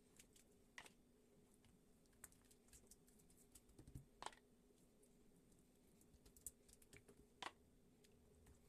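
Near silence with faint, irregular small clicks and ticks, three of them a little louder, over a faint steady hum.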